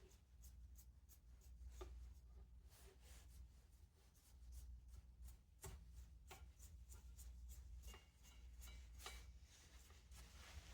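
Faint, irregular scratchy strokes of a brush wiping dirt off the back of a box fan motor, over a low steady hum.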